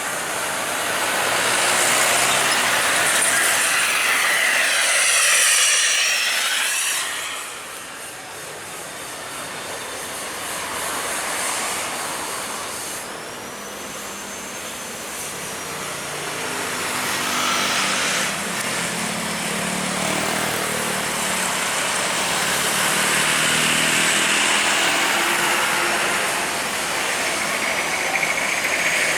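Jet airliner passing close by: its engine noise swells to a peak about five seconds in with a sweeping, whooshing hiss, then fades. A second rise in jet engine noise builds from about sixteen seconds in and holds.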